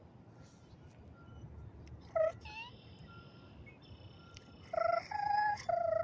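Red-winged blackbirds calling: a short call about two seconds in followed by a high, buzzy trill, then three loud calls in quick succession near the end.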